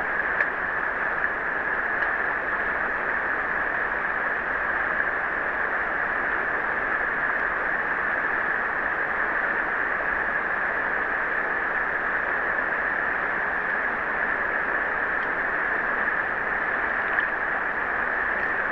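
River water running steadily over rocks, an even rushing without breaks.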